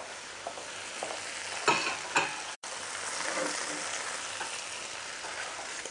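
Meat and potatoes sizzling in hot oil in a cooking pot over the flame: a steady frying hiss, with two brief sharp sounds about two seconds in.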